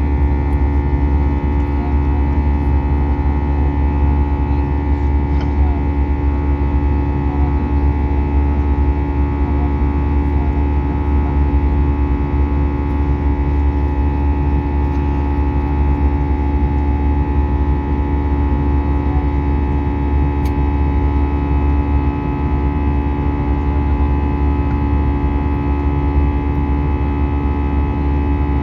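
Airbus A320 cabin noise in flight: a steady, loud low engine drone with several constant tones above it, unchanging throughout.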